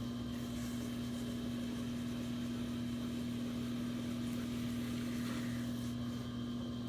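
Electric potter's wheel motor humming steadily as it spins.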